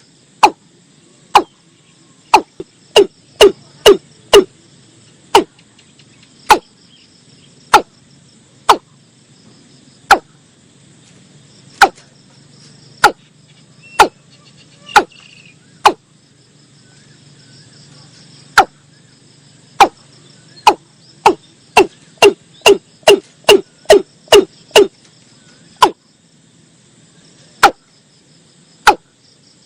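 Watercock calling: loud, short clucking notes, each dropping sharply in pitch. They come singly at first and speed up into quick runs of about three or four a second, once near the start and again in the second half. A steady chorus of insects buzzes behind.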